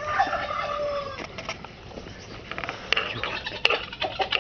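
Chickens clucking and calling: one drawn-out, slightly falling call in the first second or so, then a scatter of short clucks and sharp clicks.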